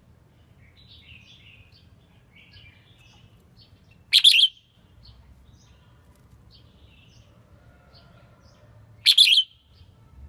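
Red-whiskered bulbul singing: two loud, short phrases about five seconds apart, with softer chattering chirps between them.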